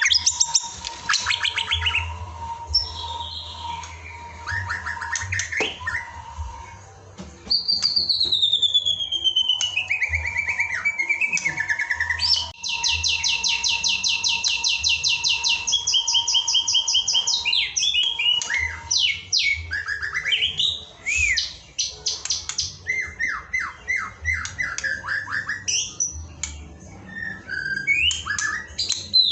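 White-rumped shama (murai batu) singing a long, varied song: clear whistles that slide down in pitch, fast rattling trills and runs of quick repeated notes.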